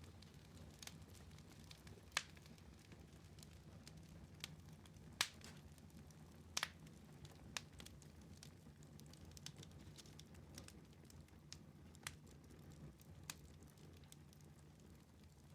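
Wood fire burning in a fireplace: a faint steady low rumble of flames, broken by scattered sharp crackles and pops. The loudest pops come about two, five and six and a half seconds in.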